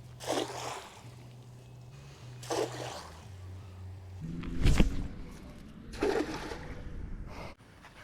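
River water splashing about five times from a cast net being thrown and hauled in for shad bait. The loudest splash, near the middle, comes with a heavy low thud.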